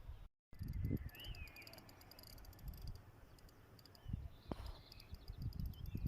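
Outdoor ambience: low rumbling surges, faint bird chirps and fine high ticking, with a sharp click about four and a half seconds in.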